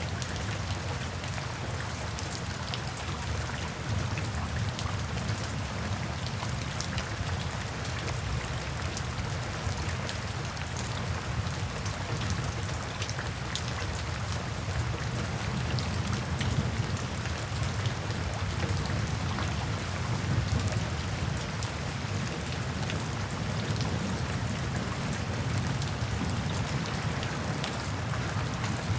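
Steady rain falling, with individual drops ticking on a surface and a dense low rumble underneath.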